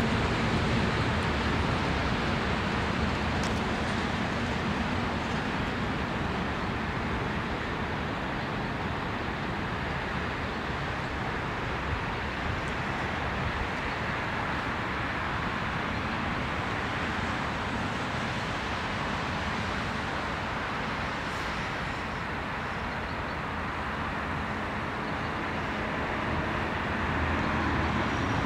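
Freight train of loaded timber wagons rolling past on the rails: a steady rumbling and rattling of wheels on track.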